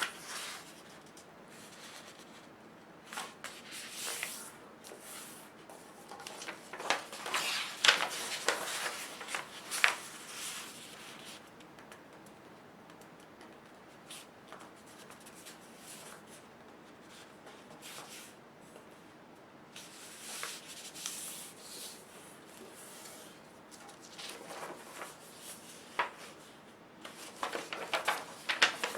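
A sheet of paper being handled, folded and creased by hand on a table: intermittent rubbing and rustling with a few sharp crackles, busiest about seven to ten seconds in and again near the end, with quieter stretches between.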